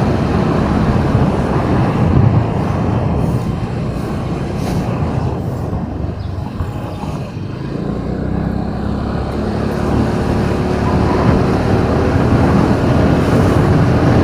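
A car driving in city traffic: steady engine and road noise heard from inside the cabin, easing off slightly about halfway through and then building again with a low engine hum.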